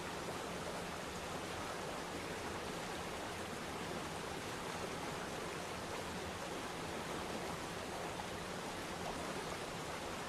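Waterfall: water falling and rushing in a steady, even wash.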